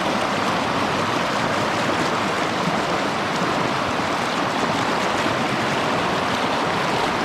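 A shallow mountain stream running over rocks, a steady rushing of water.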